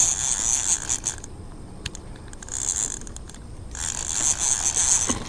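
Zebco spincast fishing reel being cranked to bring in a hooked bass, a mechanical whirring with a clicking ratchet. It runs for about a second, stops for a couple of seconds, then starts again a little before four seconds in.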